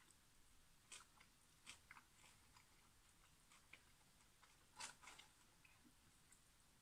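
Faint, scattered crunches and mouth clicks of someone chewing McDonald's fries, a few soft ones in the first two seconds and the loudest just before five seconds in.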